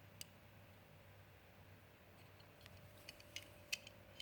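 Near silence with a few faint clicks and taps of a small diecast model pickup being handled.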